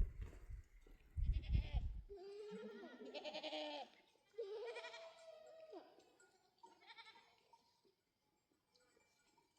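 Goat bleating three times: wavering calls about a second long each, the last one shorter and fainter. A low rumble, likely wind or handling on the microphone, is heard in the first two seconds.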